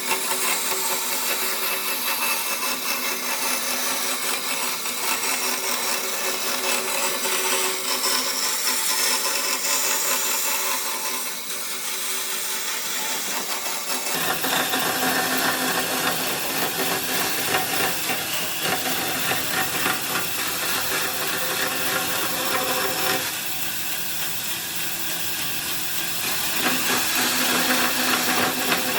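Hand-held electric power tool running continuously as it works wood, a steady motor tone over a hiss. The sound changes abruptly about halfway through.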